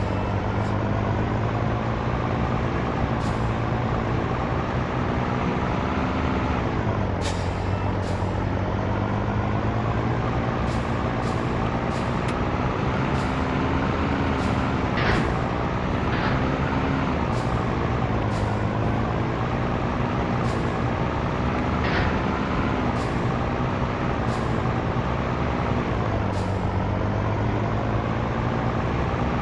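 Scania T113 truck's six-cylinder diesel engine under way, its revs climbing slowly and then dropping at gear changes about 7 seconds in and again near the end. Scattered short ticks sound over it.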